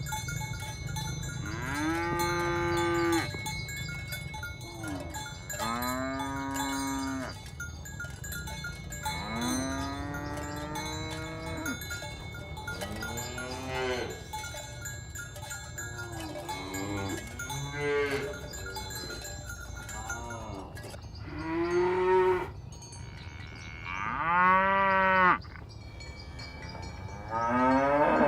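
Cattle mooing again and again, about nine long calls one after another, each rising and then falling in pitch; the loudest calls come near the end.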